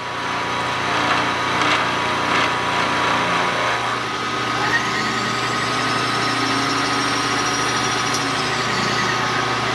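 Milling machine running steadily through a 0.055-inch finish cut, its spindle motor giving a constant hum with a fainter higher cutting tone that comes in partway through.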